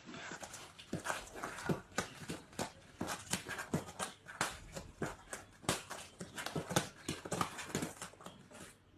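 An animal sound with a quick, irregular run of sharp clicks, about two to four a second, and short falling calls among them, fading near the end.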